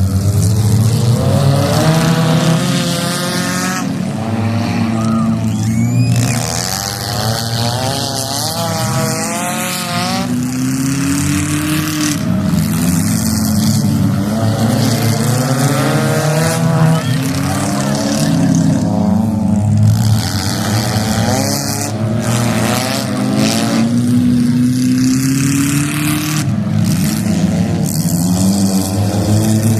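Several demolition derby cars' engines revving hard in overlapping bursts, their pitch rising and falling constantly as the drivers accelerate and back off in the arena.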